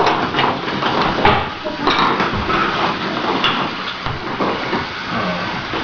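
Continuous clattering and knocking of toy train track and trains being handled and pushed about, a busy jumble of small hard-plastic knocks.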